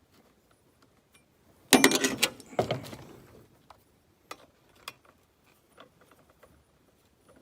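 Metal clattering and clicking of a chainsaw chain and bar being handled while a chain is fitted. Two loud bursts of rapid rattling come about two seconds in, then scattered light clicks.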